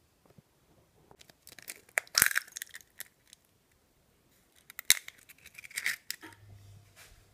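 A medium-sized egg being cracked into a small bowl: two sharp knocks of the shell against the bowl, about two seconds and five seconds in, each followed by shell crackling.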